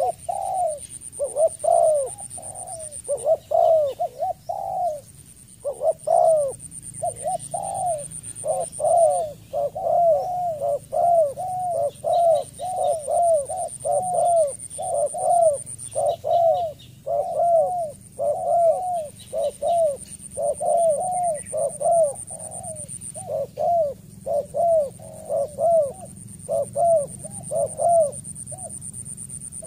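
Spotted dove calling: a long run of short, arching coos, about two a second, broken by a few brief pauses.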